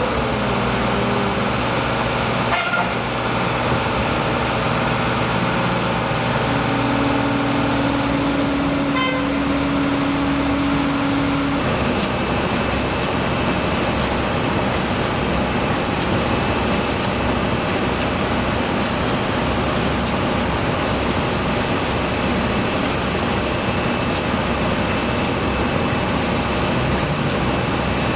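Steady vehicle and engine noise, dense and continuous, with a low held tone for about five seconds in the first half.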